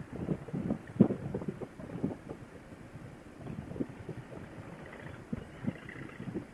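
Wind buffeting a helmet intercom microphone on a moving motorcycle, in uneven gusts. The sound is muffled and cut off above the mid-highs, as it comes through a Bluetooth headset.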